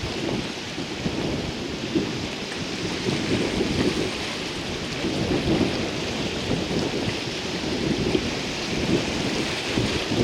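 Stormy weather: a steady rush of wind and rain, with gusts rumbling on the microphone.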